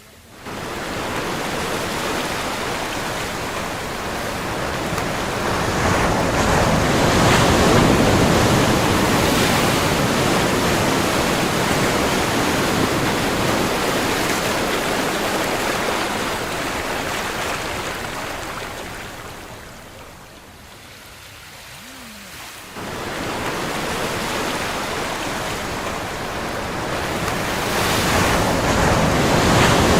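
Ocean surf: waves breaking and washing in, swelling and ebbing. The sound jumps up suddenly about half a second in and again after a quieter lull near the two-thirds mark.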